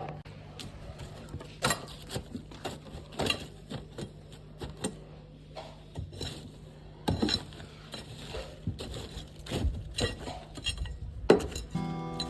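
Irregular knocks and light metallic clinks from hand tools and hardware being handled during framing repair, over a steady low hum. Acoustic guitar music comes in near the end.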